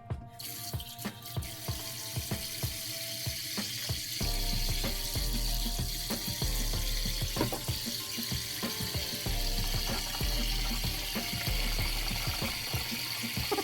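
A steady rush of water that starts just after the beginning, over background music whose bass comes in about four seconds in.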